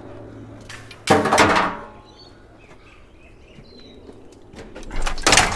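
Two loud clanks of scrap metal being handled and shifted into a full load, one about a second in that rings briefly and a harsher one near the end.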